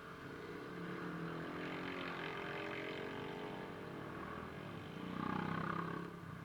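A motor vehicle's engine passing: a pitched engine note that builds and shifts in pitch, loudest about five seconds in, then drops away.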